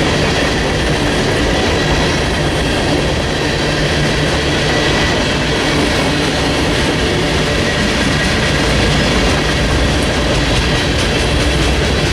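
Train passing close by, its railcars rolling steadily over the rails with continuous wheel rumble and clatter.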